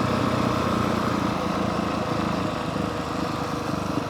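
2023 Honda CRF450R Works Edition's single-cylinder four-stroke engine running at a steady, low throttle under way, a little quieter from about halfway through.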